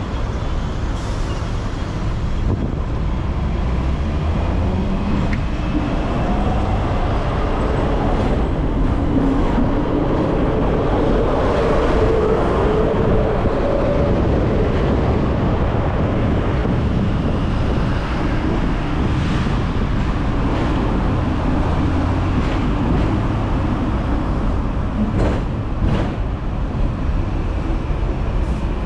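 Hong Kong double-decker electric tram running along its track: a steady rumble of wheels and motor with traffic noise. Faint squeals drift through the middle, and a few sharp clicks come near the end.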